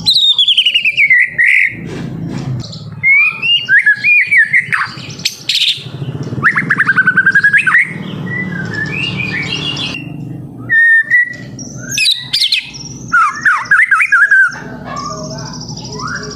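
White-rumped shama (murai batu) singing a loud, varied song of sliding whistles and warbled phrases, broken by fast trills of rapidly repeated notes. The song opens with a long falling whistle. A low steady hum runs underneath.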